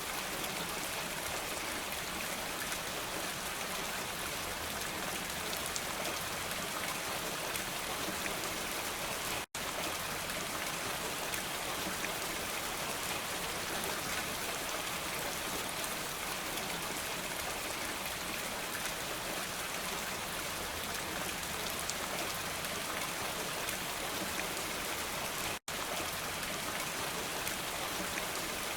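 Steady rain falling, an even hiss of many drops on surfaces. It cuts out to silence for an instant twice, about a third of the way in and near the end.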